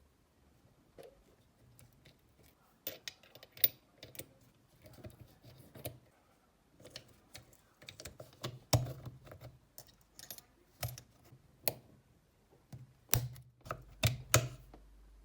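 Irregular light clicks and knocks of small hard parts being handled and set down, some two dozen taps spread unevenly, with the loudest cluster near the end. A faint low hum comes in shortly before the end.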